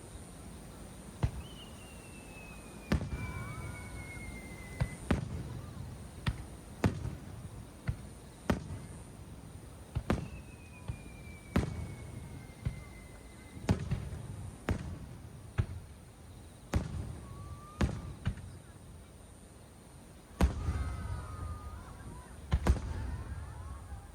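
Aerial fireworks display: sharp shell bursts about once a second, with two long whistles that slide down in pitch and a denser run of bangs near the end.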